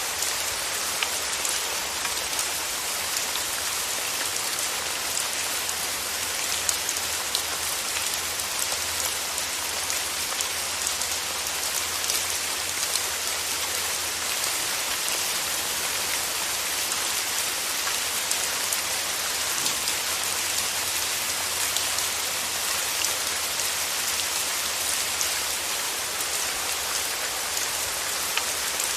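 Steady rain falling, an even hiss dotted with the taps of many small drops.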